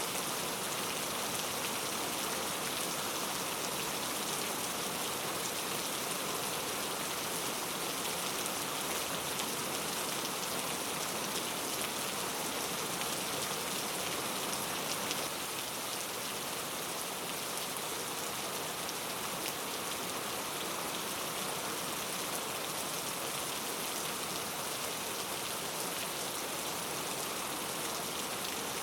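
Steady rain falling on forest foliage, a dense even patter of many drops that eases very slightly about halfway through.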